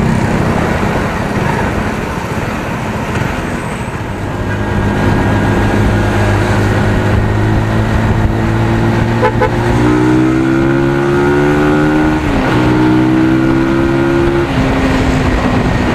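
A 250 cc single-cylinder motorcycle being ridden, its stock exhaust giving a bassy note. Wind and road noise come first; then the engine note climbs steadily as the bike pulls, dips briefly about three-quarters through, and falls away near the end.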